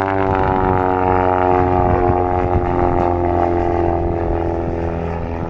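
Pitts Special S1 aerobatic biplane's piston engine and propeller running hard as it flies past, with the pitch falling slowly throughout.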